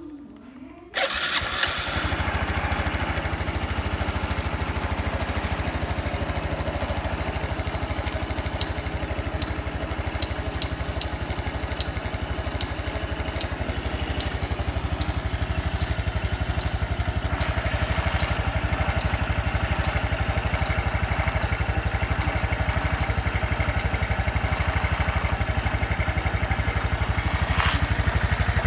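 A fuel-injected Honda Super Cub 110 (JA07) with its air-cooled single-cylinder four-stroke starts about a second in and then runs steadily at idle, with faint light clicks for a few seconds. The uploader reports no abnormal engine noise.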